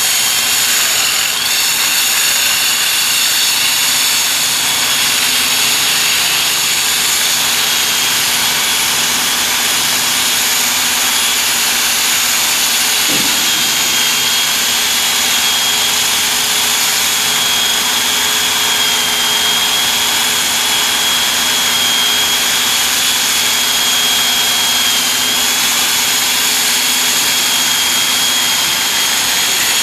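Power drill boring through solid concrete, running steadily under load with a constant high whine over a dense grinding noise.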